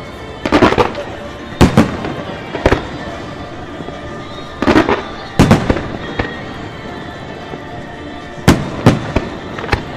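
Fireworks exploding: a series of sharp bangs at irregular intervals, some in quick pairs or short clusters, over a steady background din.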